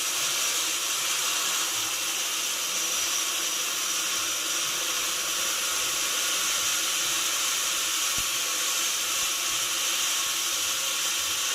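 Sawmill saw running steadily through mahogany wood, a continuous high hiss with a faint steady whine and no break.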